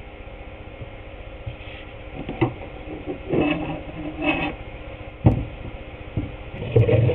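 Wooden boards and tools being handled on a workbench: scuffling and shifting noises with a few sharp knocks, the sharpest about five seconds in, then louder rubbing of wood near the end.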